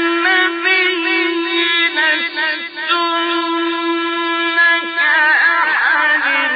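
Qur'an recitation in the melodic mujawwad style: one male voice holding long, ornamented notes with a wavering vibrato.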